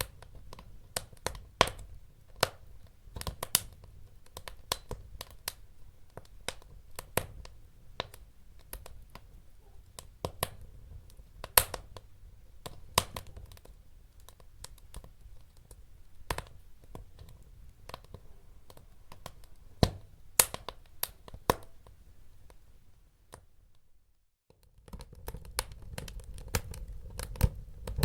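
Wood fire crackling in a fireplace: irregular sharp pops and snaps, several a second, over a low rumble of burning. About three-quarters through the sound drops out for about a second, then the crackling resumes.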